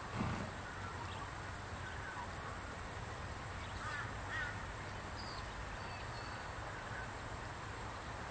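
Outdoor ambience with a few short bird calls around the middle, over a steady high hiss and a low rumble. A brief low thump comes just at the start.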